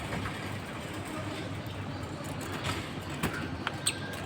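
Steady low rumbling background noise, with a few short, high bird chirps near the end.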